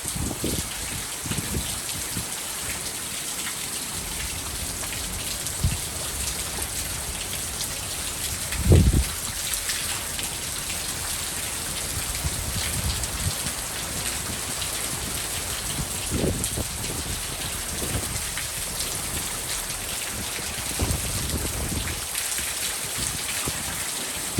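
Heavy rain pouring steadily in a thunderstorm, a constant hiss. A few short low thumps break through it, the loudest about nine seconds in.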